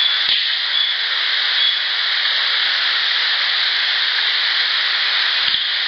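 Outdoor recorder field recording dominated by a loud, steady hiss. Two faint low knocks sound in it, one just after the start and one near the end, which the recordist presents as rock clacks. A few faint, short high chirps sound early on.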